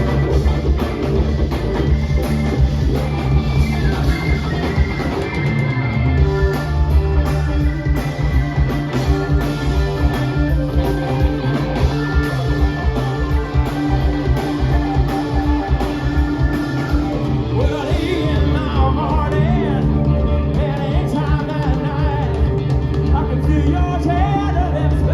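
Live blues-funk band playing a loud instrumental passage: a steady bass line and drum kit beat with electric guitar lines on top, the melody bending up and down in the second half.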